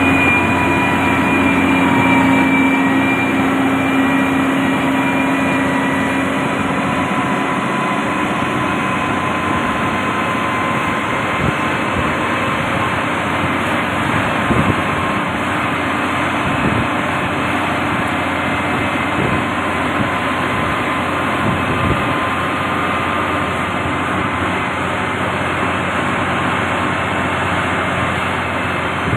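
Heavy road-building machine's engine running steadily under load, with a steady whine in the first several seconds and a few faint knocks partway through.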